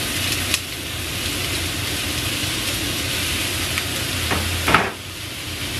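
Floured galunggong (round scad) fish pieces and yellow bell pepper strips sizzling steadily in olive oil in a frying pan. A light click comes just after the start and a sharper knock about a second before the end.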